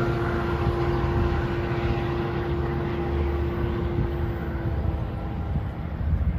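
Train rumbling past and slowly fading, with a steady singing tone from the wheels or machinery that dies away about five seconds in.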